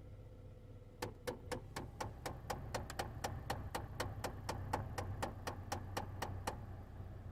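Chevrolet HHR HVAC air door actuator clicking rapidly and evenly, about four clicks a second, starting about a second in and stopping near the end, over a steady low hum. The clicking is the sign of broken gears inside the actuator.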